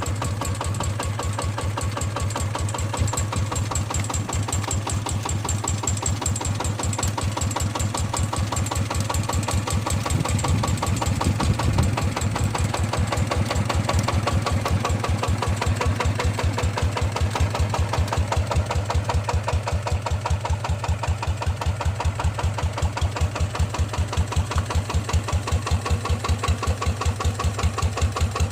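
Yanmar 150 single-cylinder diesel engine running with a downturned exhaust pipe fitted, giving a deep, steady thumping exhaust beat. It swells briefly a little past ten seconds in, then settles back to a steady run.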